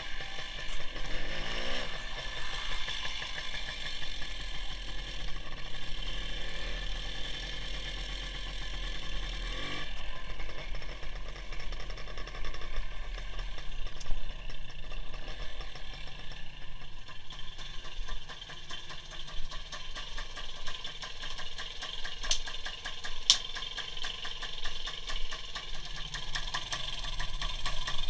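WSK 175's two-stroke single-cylinder motorcycle engine running, heard onboard, its note rising and falling a few times as the throttle changes.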